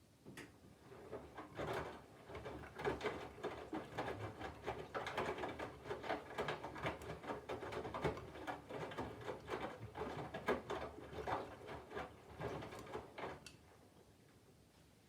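Candy front-loading washing machine's drum turning slowly during its load-weighing phase, the wet laundry inside tumbling with an irregular run of soft thuds and rustles. It starts just after the beginning and stops near the end, with the drum then standing still.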